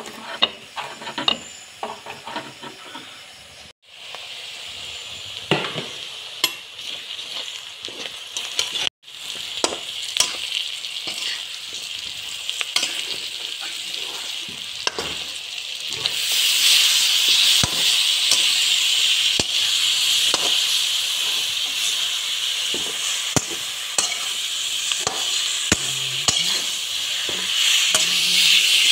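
Smoked beef with onions and tomato sizzling in oil in a pan while a metal spatula stirs and scrapes against the pan; the sizzle grows louder a little past halfway. It opens with sharp clicks of a knife against a ceramic plate as red chillies are cut.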